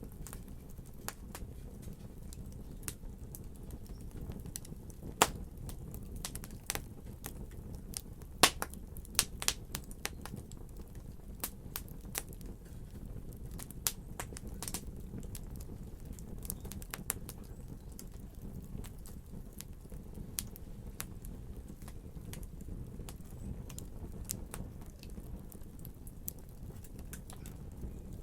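Wood fire crackling in a fireplace: a steady low hiss with irregular sharp pops and snaps, several louder pops clustered around a third of the way in.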